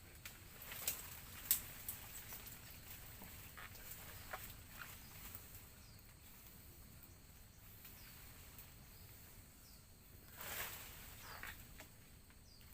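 A person climbing a melinjo tree: twigs snapping and leaves rustling, with sharp snaps about one and one and a half seconds in, scattered small cracks over the next few seconds, and a longer rustle near the end.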